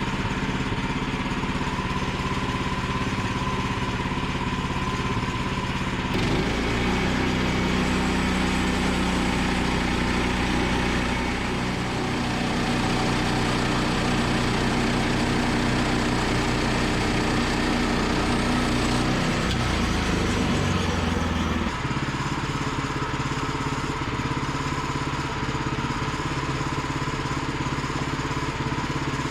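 Gas engine of a Woodland Mills portable bandsaw mill running steadily as the band blade saws through a log. About six seconds in the engine note changes and deepens under heavier load in the cut, then returns to its earlier sound at about twenty-two seconds in.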